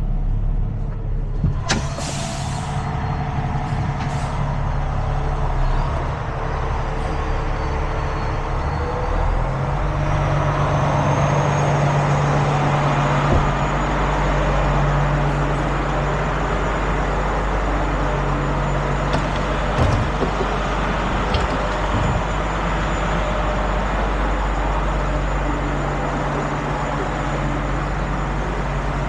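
Tow truck's diesel engine running while it inches about in tight quarters, with a short hiss about two seconds in; the engine runs harder from about ten seconds in.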